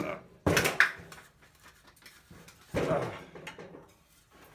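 Recoil starter of a Honda 200cc small engine pulled twice, about two seconds apart, each pull a short burst of cord and cranking; the engine does not catch.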